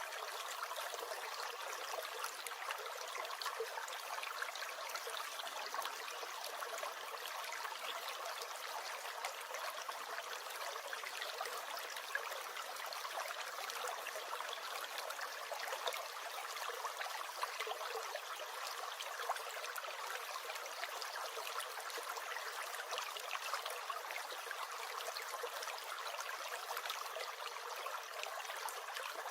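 A small stream gurgling steadily: a constant rush of running water flecked with many small splashes and drips.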